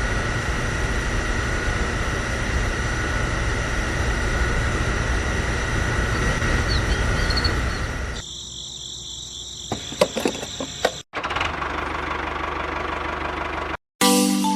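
Small DC motors running with a steady whir and fixed whining tones. The sound cuts about eight seconds in to a quieter, different motor sound with a wavering high whine and a few clicks, then a short break and another steady running stretch.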